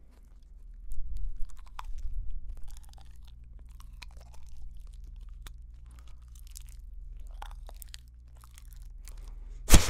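A person chewing a paper sticker right up at a condenser microphone: wet, irregular crunching and crinkling mouth noises, with one sharp, loud click near the end.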